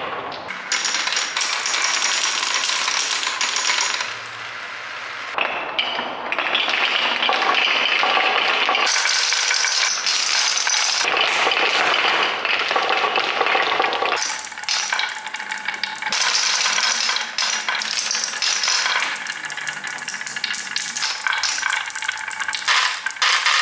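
Glass marbles rolling and clattering against each other and along a track: a continuous dense rattle of clicks and clinks.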